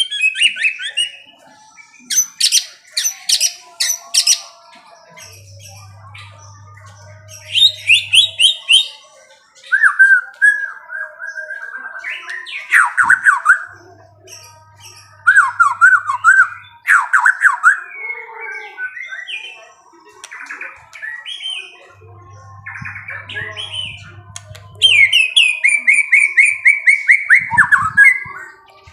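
A songbird singing and calling in loud, varied phrases: quick runs of sharp repeated chirps, falling trilled notes, and a long rapid series of notes near the end.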